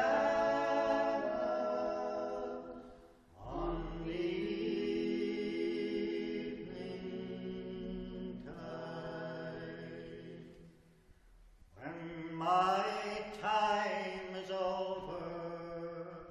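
Shanty group singing a cappella in harmony, holding long notes across three phrases, with short breaths between them about three seconds and about eleven seconds in.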